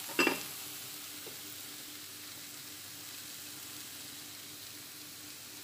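A glass pot lid is set down on a pot with a sharp ringing clink about a quarter second in. After it comes the steady soft sizzle of stir-fried bitter gourd still on the heat in its pan.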